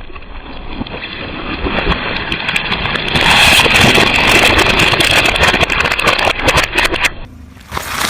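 Car tyre rolling over crunchy objects and crushing them: a dense run of crackling and snapping that grows louder about three seconds in, breaks off briefly near the end, then starts again.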